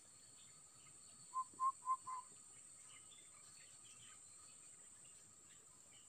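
Insects shrilling steadily at a high pitch in forest undergrowth, with a bird giving four short, clear whistled notes in quick succession about a second and a half in.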